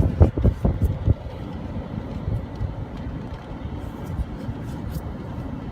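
Low rumbling wind buffeting the phone's microphone during a heavy thunderstorm, with a few louder bumps in the first second.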